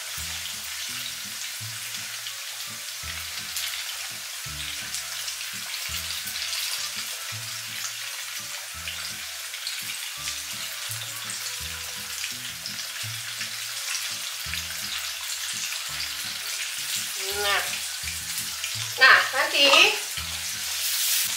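Battered banana fritters frying in a pan of hot oil: a steady sizzle of bubbling oil.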